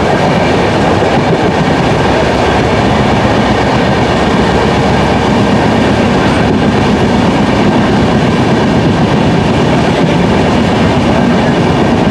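Moving passenger train heard from on board: a steady rumble and clatter of wheels on the rails with rushing air, while another passenger train runs on the next track.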